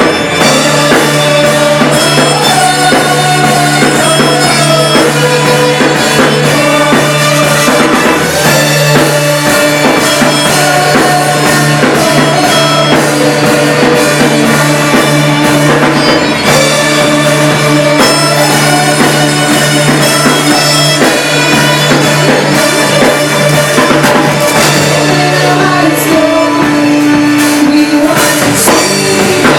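Live worship band at rehearsal playing a song loudly, with drum kit and bass under the other instruments.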